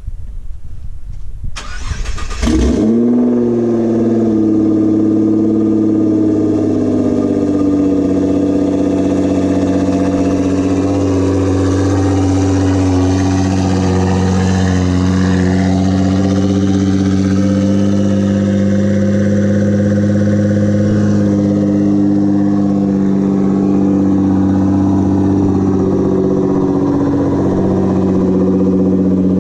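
Nissan GT-R's twin-turbo 3.8-litre V6 cranking and firing up about two seconds in, flaring briefly in pitch and then settling into a steady idle.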